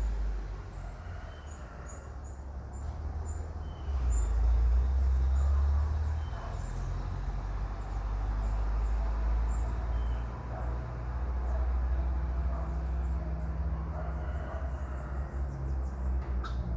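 Marmosets giving short, very high-pitched chirps, scattered irregularly and many times over, above a steady low rumble.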